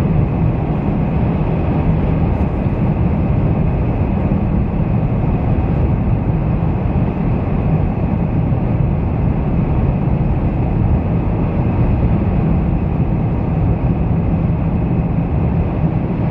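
Steady low rumble of road and engine noise inside a moving car's cabin, running without change.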